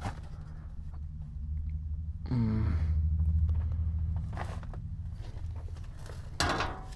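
Shuffling and scraping of a person crawling across a crawl space floor, with scattered knocks, over a steady low hum. A brief voice sound comes about two seconds in.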